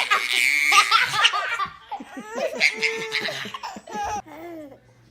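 Baby laughing in quick repeated bursts, with other laughter around it.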